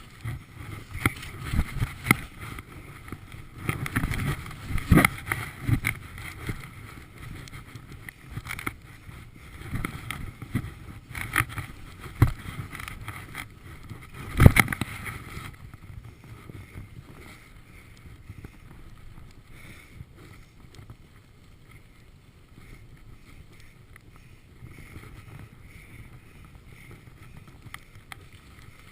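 Skis scraping and chattering over snow, with wind on the microphone: irregular scrapes and knocks, a hard thud about fourteen seconds in, then a quieter steady rush.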